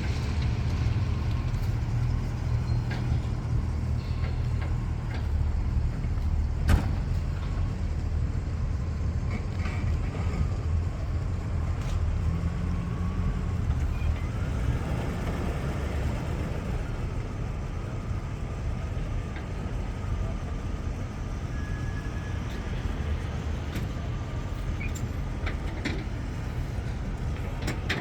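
Car engines running, a steady low rumble, with a sharp knock about seven seconds in.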